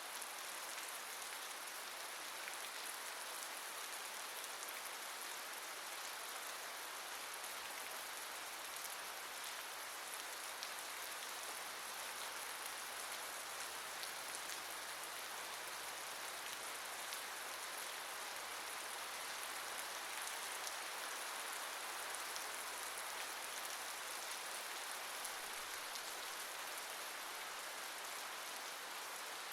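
Steady rain falling, an even hiss of many drops on a surface with no thunder. A faint low hum sits beneath it for much of the stretch.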